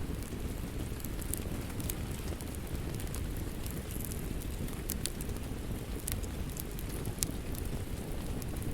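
Wood fire crackling: a steady low rumble of flames with scattered sharp pops and snaps, the sharpest about seven seconds in.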